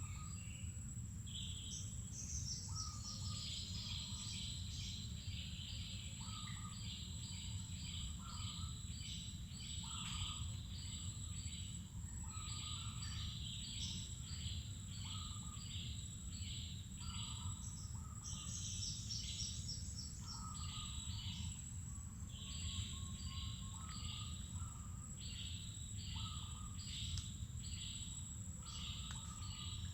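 Wild birds chirping in many short, repeated calls over a steady high-pitched insect drone and a low steady rumble.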